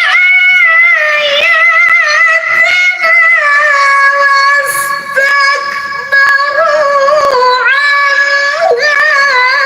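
A woman chanting Qur'anic recitation (tilawah) in a long melodic line, holding high notes with wavering ornaments and pausing briefly about five and six seconds in.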